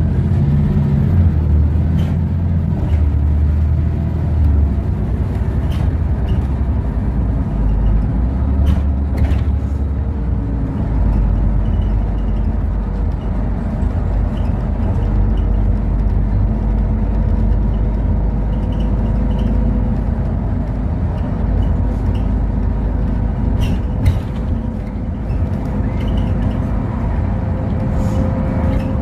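Interior of a LiAZ 5292.65 city bus on the move: the diesel engine and road noise make a steady low rumble, with scattered knocks and rattles. A faint whine rises slowly in pitch through the second half.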